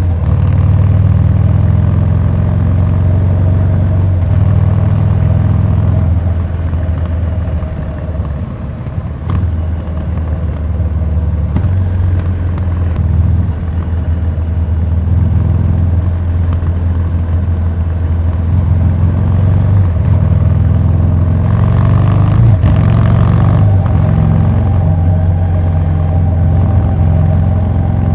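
Harley-Davidson Street 750's V-twin engine through a Vance & Hines slip-on exhaust, running at low road speed with a steady low note. It eases off and softens about eight seconds in, then picks up again, and a brief rush of noise comes near the end.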